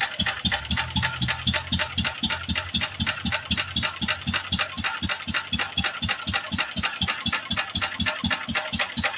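McCormick-Deering Type M 1½ hp stationary gas engine running with a rapid, even beat.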